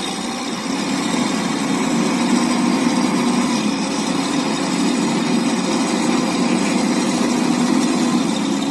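A vehicle engine running steadily at an even pace, with a constant hum.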